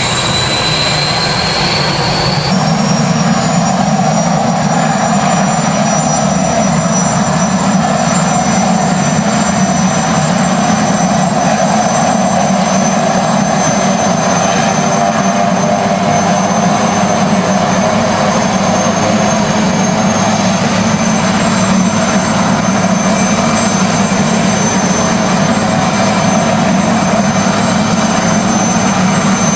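Helicopter running: steady turbine and rotor noise with a high-pitched turbine whine. The whine jumps in pitch about two seconds in.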